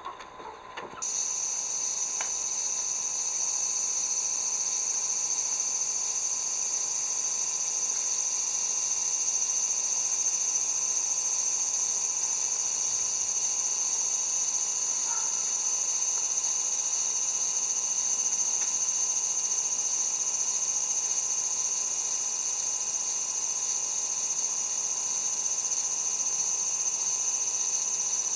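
Insect chorus: a steady, dense, high-pitched drone that starts abruptly about a second in and holds level throughout.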